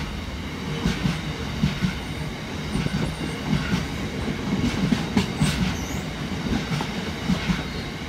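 A freight train's covered hopper wagons rolling past at speed: steady rumble of the wheels on the rails with repeated knocks, often in pairs, as each bogie's wheelsets pass.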